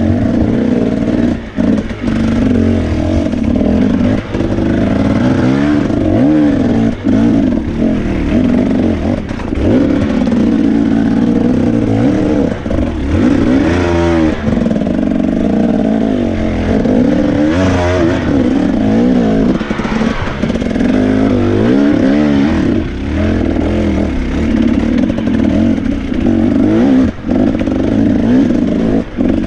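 A 2017 Husqvarna TE 250 two-stroke enduro motorcycle engine revving up and down over and over as the bike is worked over rough rock, its pitch rising and falling every second or two. Short knocks and clatter from the bike striking rocks come through here and there.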